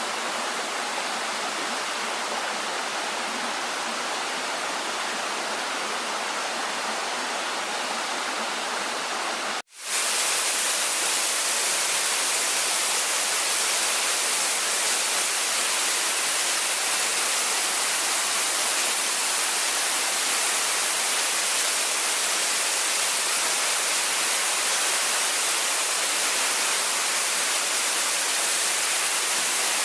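Waterfall: a steady rush of falling water. It cuts out for an instant about ten seconds in, then comes back louder and hissier.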